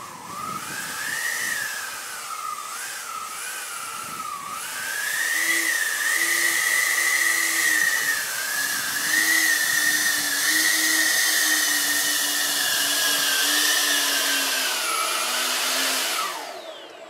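Electric ducted fans of a radio-controlled Boeing 737 model whining as they spool up. The pitch rises and falls with the throttle for the first few seconds, then holds fairly steady while the model taxis uphill, and winds down near the end.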